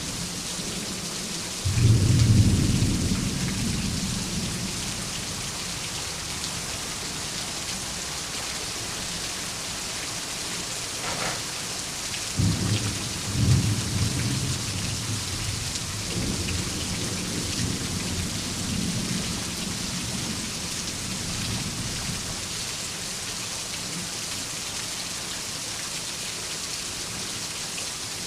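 Steady rain hiss with two peals of thunder: a sudden clap about two seconds in that rumbles away over a few seconds, and another beginning about twelve seconds in with two cracks and a low rumble rolling on for several seconds more.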